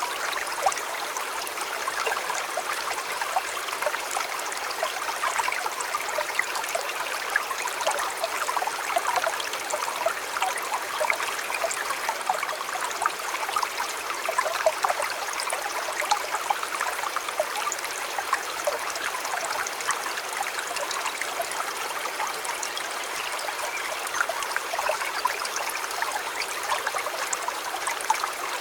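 River water flowing steadily, a continuous trickling, babbling stream sound with no pauses.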